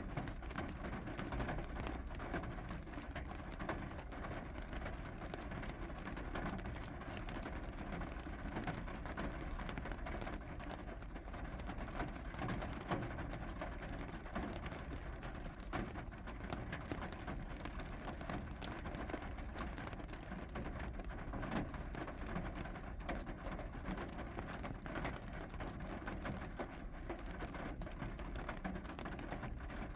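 Steady rain falling, with many small drop ticks scattered through it and a steady low rumble underneath.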